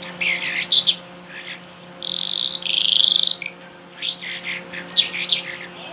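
A songbird singing a varied song of short chirps, whistles and buzzy notes, with a longer buzzy trill about two seconds in, over a faint steady low hum.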